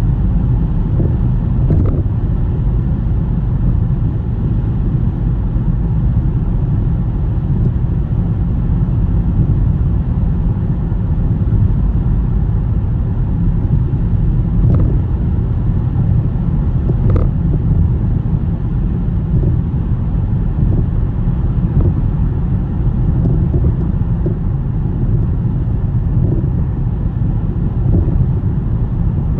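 Car driving along a snowy road: a steady low rumble of tyre, engine and wind noise, with a few faint clicks.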